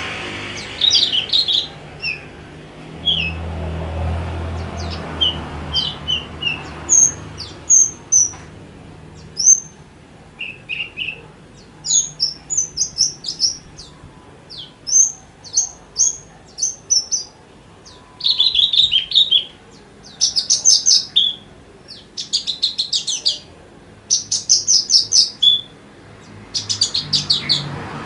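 Javan bush lark (branjangan) singing a long run of short chirps and whistles with only brief pauses. In the second half the song turns into fast, buzzy trills.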